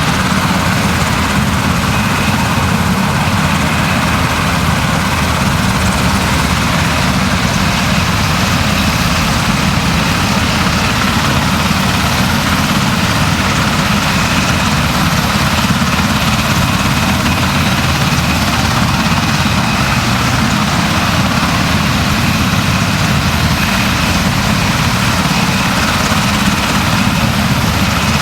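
Steady, loud engine drone.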